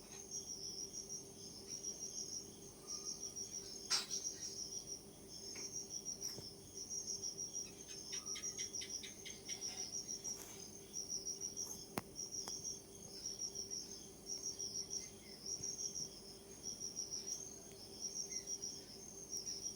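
Insects chirping in short, high, pulsed trills that repeat throughout, over a steady low hum. A sharp click comes about four seconds in, a quick run of clicks around the middle, and another click near twelve seconds.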